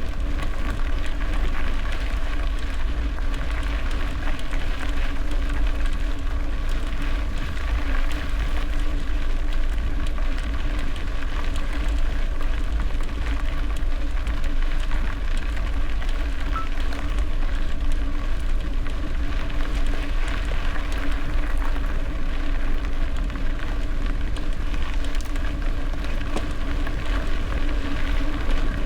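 Wind buffeting the microphone of a gravel bike rider, over the steady rolling rush and hum of the bike's tyres and drivetrain at a constant speed.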